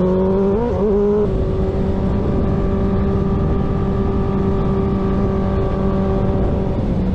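Suzuki GSX-R sport bike engine under way. Its pitch climbs and wavers briefly in the first second, then holds steady at cruising speed over a constant rush of noise.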